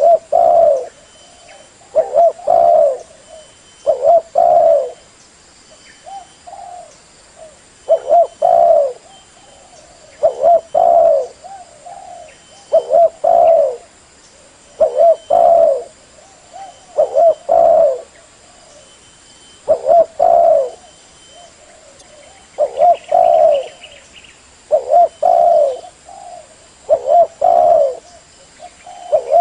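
Spotted dove (tekukur) cooing: the same multi-note coo phrase repeated about every two seconds, with one longer pause between phrases.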